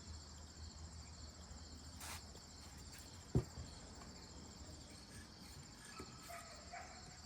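Crickets trilling steadily over a low hum, with a brief rustle about two seconds in and a single sharp click about three and a half seconds in.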